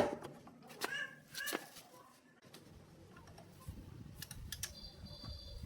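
A cat gives two short meows about a second in. Then come a few light clicks and a thin high steady tone near the end.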